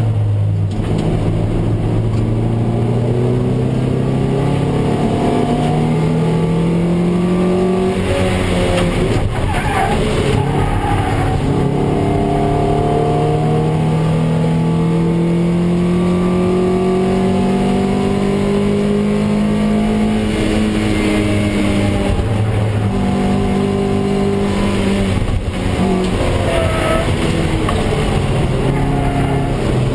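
Toyota MR2 Roadster race car's engine, heard from inside the cabin, pulling hard with its pitch climbing over several seconds and dropping back at each gear change, over steady road and wind noise.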